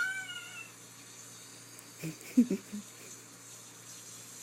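A cat's meow falling in pitch, ending just under a second in, followed about two seconds in by a short cluster of low thumps, the loudest of them near the middle.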